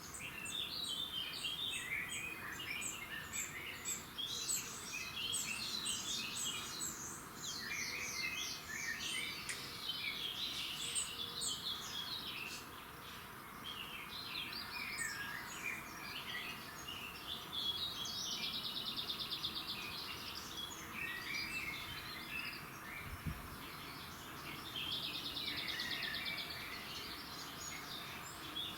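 Several songbirds singing and calling at once, with overlapping short chirps and phrases. Two fast, buzzy trills come about two thirds of the way through and again near the end.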